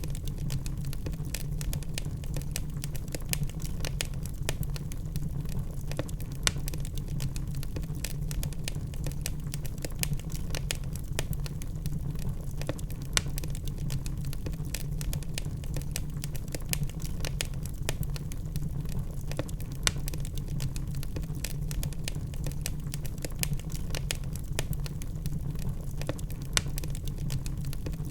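Wood logs burning in a fireplace, crackling and popping in frequent irregular snaps over a steady low rumble of the flames, with a few louder pops.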